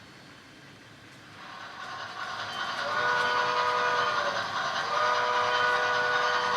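Steam-locomotive whistle from a sound-equipped HO-scale model steam locomotive: two blasts, a shorter one and then a longer one held through the end, each a chord of several steady tones. Running noise from the locomotive grows louder about a second and a half in, before the first blast.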